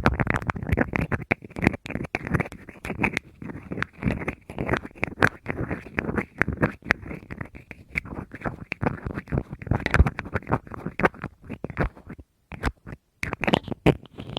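Fast, dense tapping and scratching on a handheld object, many light taps a second, with a brief pause about twelve seconds in.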